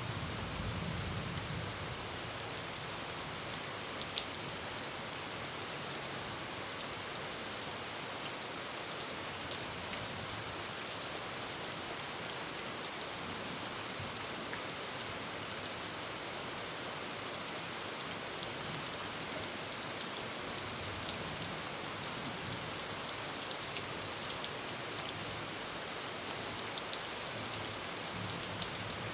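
Heavy rain drumming steadily on a tin roof, with a few sharper drop hits standing out. A low thunder rumble dies away in the first second.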